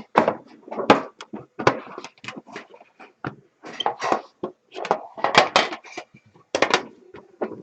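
Irregular knocks, clacks and rustling of things being handled, coming in quick succession.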